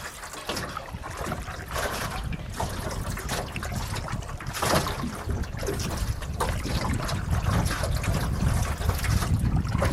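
Water splashing and trickling off a canoe paddle as it strokes through lake water, with wind rumbling on the microphone near the end.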